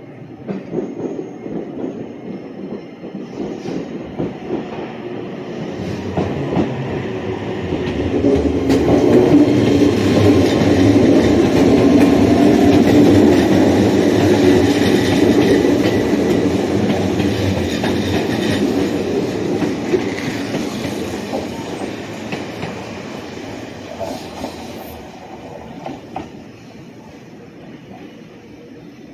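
Electric train running past on the rails, wheels clicking and rattling over the rail joints. It grows louder to a peak about halfway through, with a faint motor hum rising in pitch, then fades away.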